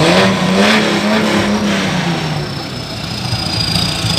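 Diesel truck engine revved once: the pitch climbs quickly, holds for a moment and falls back over about two seconds, leaving the engine running with a faint high whistle.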